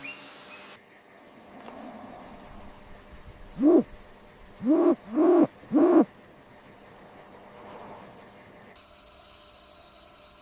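Four short hooting calls, each rising and then falling in pitch: one alone, then three in quick succession, over a faint jungle background. A steady high insect trill comes in near the end.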